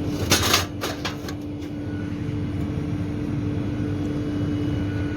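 Steady mechanical drone with a constant hum tone, broken in the first second and a half by a loud rattling burst and a few sharp metallic clicks as the metal housing of a refrigeration monoblock is handled and fitted back on.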